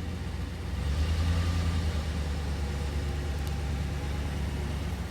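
A vehicle engine running steadily with a low drone, rising a little about a second in.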